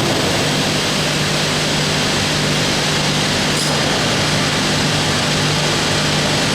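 Finger-jointing machine of a lamella splicing line running: a steady mechanical drone with a constant low hum under it.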